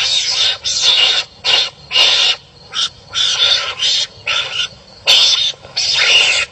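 Wild animals barking and calling harshly at one another, as animals do when fighting: a rapid run of rough, noisy calls, each under half a second, with short gaps between.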